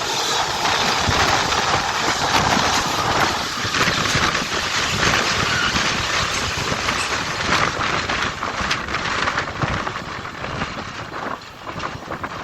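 A train running past on the rails, with wind on the microphone. The noise slowly fades over the last few seconds as the train moves away.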